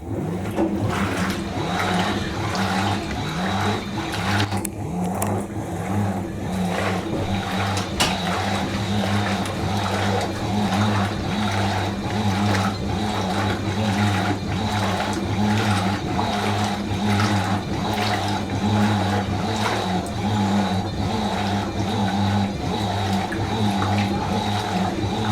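Fisher & Paykel MW512 top-loading washing machine running, a steady hum mixed with a continuous water-like rush, starting suddenly.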